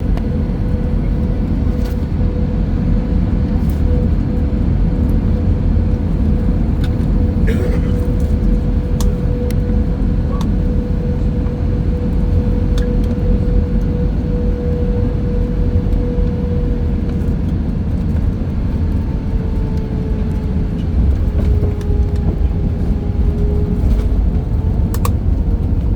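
Airbus A320 cabin noise: a steady low rumble of engines and airflow, with a steady engine tone that drifts slightly lower in the second half and a few faint clicks.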